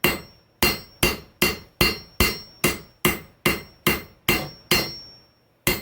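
Hand hammer forging a hot steel file on an anvil: a steady run of ringing blows, about two and a half a second, a short pause near the end, then one more blow.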